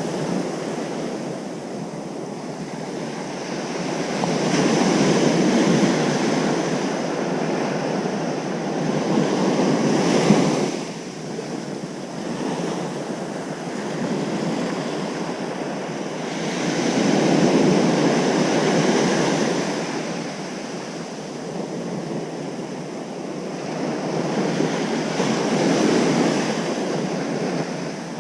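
Ocean surf breaking on a beach: a continuous wash of surf that swells and ebbs as each wave comes in, with four louder surges, the second of which cuts off abruptly about ten seconds in.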